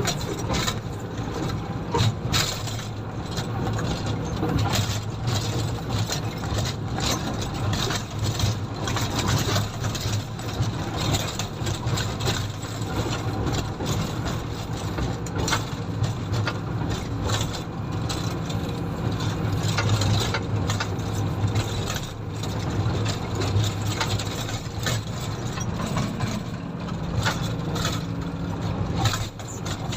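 Komatsu motor grader's diesel engine running steadily under work, with frequent short knocks and rattles over it.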